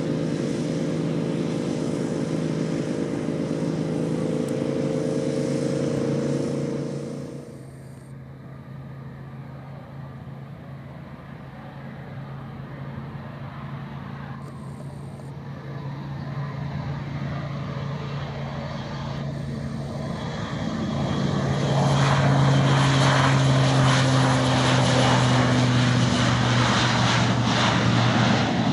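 Air Tractor 802 agricultural turboprop aircraft with a steady engine and propeller hum. It is loud at first, fades away about seven seconds in, then slowly builds and is loud again for the last third, as the plane passes, moves off and comes back.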